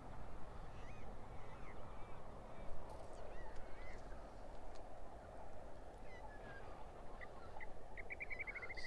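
Birds calling outdoors: scattered short chirps and whistles, with a fast trill of repeated notes starting near the end, over a steady background hiss.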